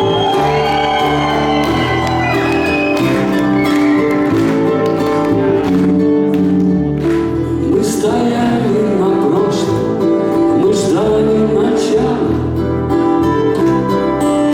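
Live rock music with singing over guitar and band accompaniment; the vocal line comes in and out over steady held chords.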